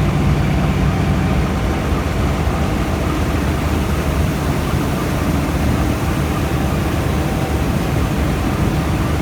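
Diesel-electric locomotive and passenger train running steadily, with a dense low rumble and noise. A steady low hum fades out about a second and a half in.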